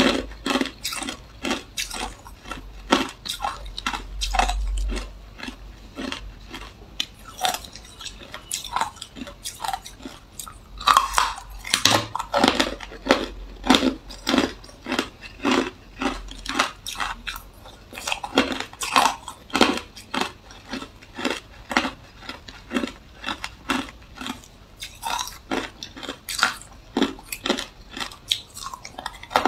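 Close-up crunching of hard clear ice being bitten and chewed, a steady run of sharp crunches about two or three a second.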